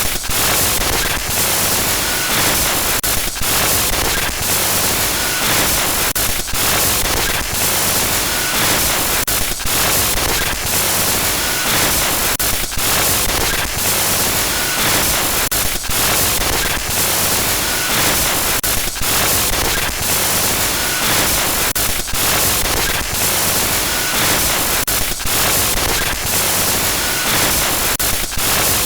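Glitchy electronic static noise: a loud, dense hiss that stutters with brief dropouts, its pattern looping about every three seconds.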